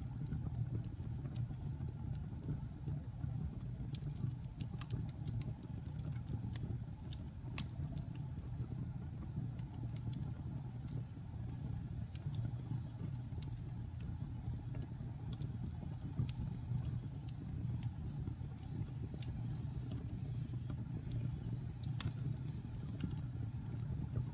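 Wood fire burning in a fireplace: a steady low rumble of flame with irregular, scattered sharp crackles and pops, one louder pop near the end.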